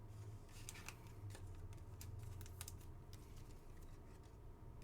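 Faint clicks and light rustling of trading cards being handled, with a steady low hum underneath.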